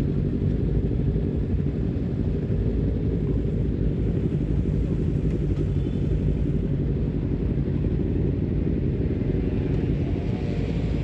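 Honda CBR250RR with an aftermarket R9 full-system header and short LeoVince GP Corsa carbon silencer running steadily: a continuous low exhaust rumble with no clear rise or fall in revs.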